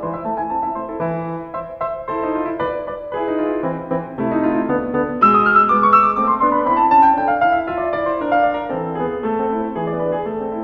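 Background piano music: a gentle melody over sustained notes, with a falling run of notes about halfway through.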